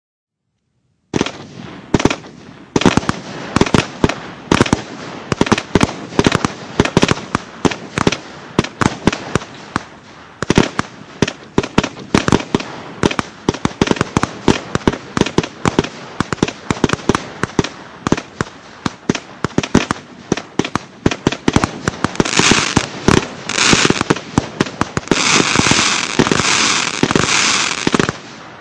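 Nico 'Dragon Fight' firework battery (cake) firing shot after shot, a few sharp bangs a second, starting about a second in. Near the end the bangs give way to dense crackling from crackling stars, which stops just before the end.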